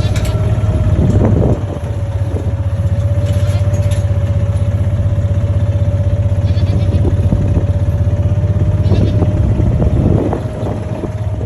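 Skid steer engine running steadily with a constant whine over its low drone, and a few brief clatters.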